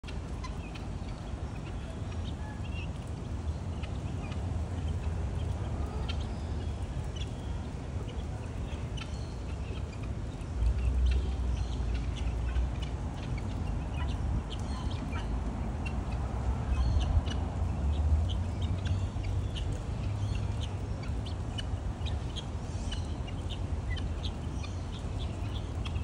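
Scattered short bird chirps over a steady low rumble, which swells a little twice.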